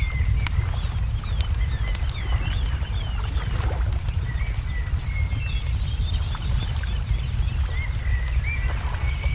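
Small birds chirping in quick series of short, pitch-bending notes, with sharp crackles and pops from a burning wood fire, over a steady low rumble.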